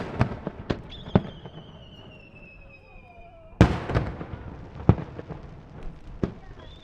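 Aerial fireworks shells bursting in sharp bangs, a quick cluster at the start and another about three and a half seconds in. Between them, and again near the end, a high whistle slowly falls in pitch.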